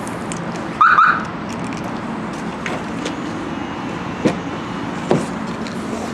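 A Lexus key-fob unlock chirp, one short loud beep about a second in, over steady background noise, followed by a few light clicks from the car's door and handle.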